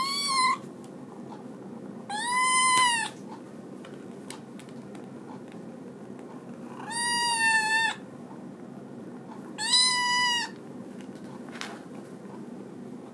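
Two-month-old kitten meowing four times, high-pitched calls each lasting up to about a second, with a few seconds between them.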